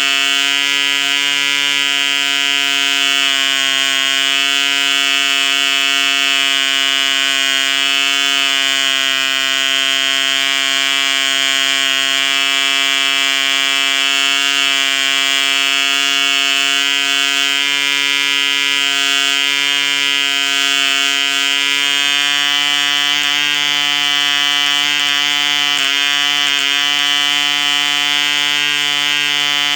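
ED Mk2 1cc two-stroke model diesel engine running steadily at high speed, driving an 8 x 4 propeller: a loud, even, high-pitched buzz, with a brief wobble in pitch about 26 seconds in.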